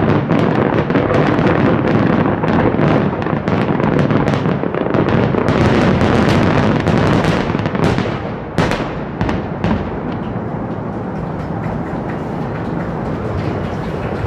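Fireworks bursting in a dense, continuous barrage of bangs and crackles. After about eight seconds it thins to a few separate sharp reports, then to a quieter, steady noise.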